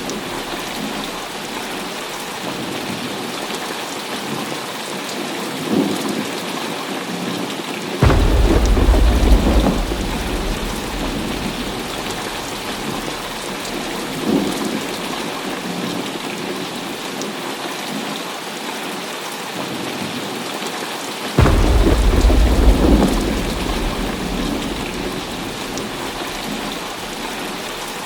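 Heavy rain falling steadily, with a sudden loud thunderclap about a third of the way in and another about three-quarters of the way through. Each rumbles for a couple of seconds before fading back under the rain, and fainter rolls of thunder come in between.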